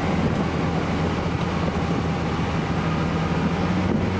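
Steady mechanical drone with a constant low hum on an airliner's flight deck, from the APU-powered air conditioning and cockpit fans running while the aircraft is under tow.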